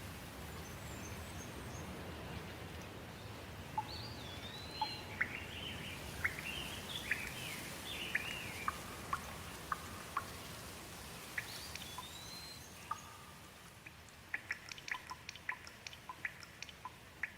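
Songbirds chirping and singing over a steady patter of rain. Near the end the rain thins and a quick run of short, sharp ticks takes over.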